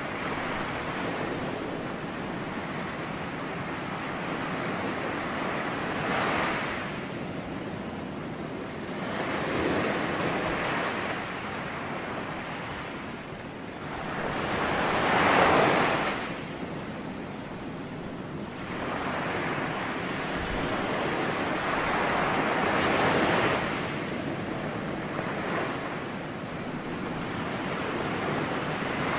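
Ocean waves breaking on a shore in a continuous wash of surf, swelling and receding every few seconds, with the loudest wave about halfway through.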